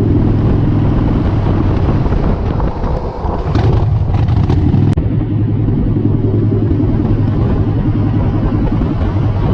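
Harley-Davidson V-twin motorcycle engine running steadily under way. About three seconds in the engine note dips briefly and comes back, with rushing wind noise and a sharp click just before the five-second mark.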